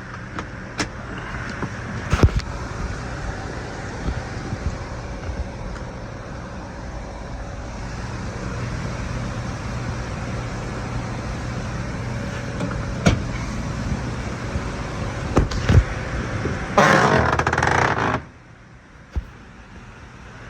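A 5.3 L V8 engine idling steadily, with a few sharp knocks. Near the end there is a louder, rougher burst of about a second, and then the engine sound cuts off.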